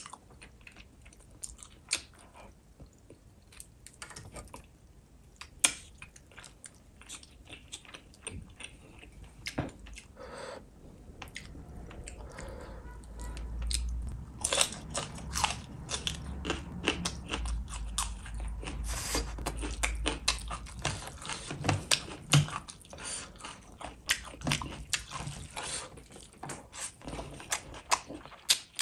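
Close-miked chewing and biting of a fish-and-rice meal, with many crisp crunching clicks. The crunches grow denser and louder from about halfway, as a raw red chilli is bitten.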